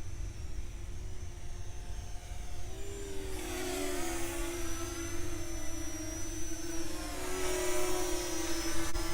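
Parrot Anafi quadcopter's four propellers whining in flight. The pitch wavers as the drone manoeuvres, from about three seconds in, and the sound grows louder and brighter from then on.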